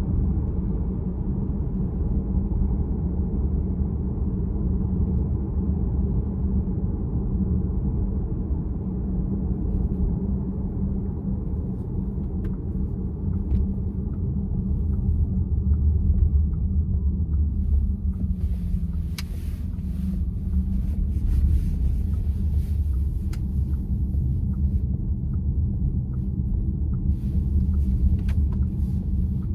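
Steady in-cabin road and tyre rumble of a VW ID.4 electric SUV being driven. From about halfway in there is faint, evenly spaced ticking, with scattered sharp clicks over the last third.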